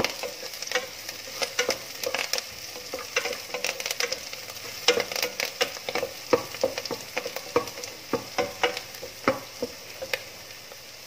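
Chopped onions, dried red chillies and curry leaves sizzling in hot oil in a non-stick pan, with a wooden spatula stirring and scraping them in frequent irregular taps against the pan; the stirring eases near the end.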